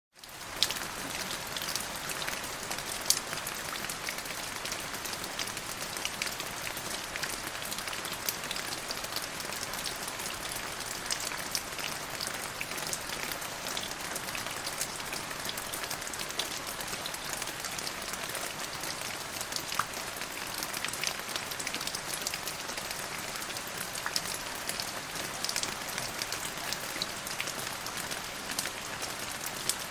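Steady rain falling on a surface: an even hiss with many separate sharp drop hits. It comes back in from a brief silence at the very start.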